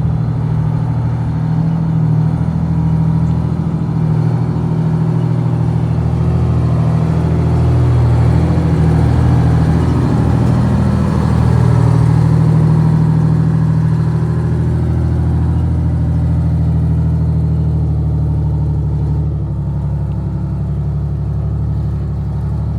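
A large vehicle engine running close by, loudest and shifting a little in pitch around the middle.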